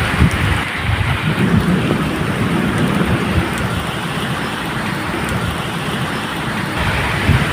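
Medium rain falling steadily, a dense even hiss, with a low rumble of distant thunder rolling underneath and swelling about a second and a half in.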